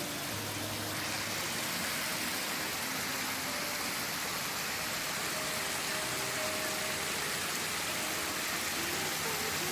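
Waterfall: a steady rush of falling water that gets a little brighter about a second in.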